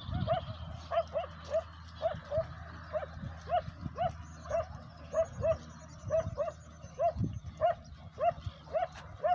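A dog barking in quick, short, high yips, over and over at about two to three a second without a break.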